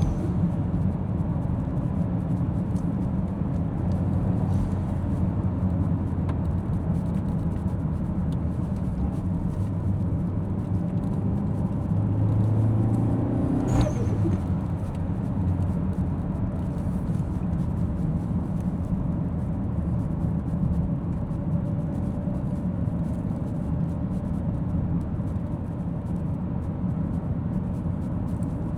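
Car being driven, heard from inside: a steady engine and road rumble. About halfway through a short rising sound ends in a single sharp knock.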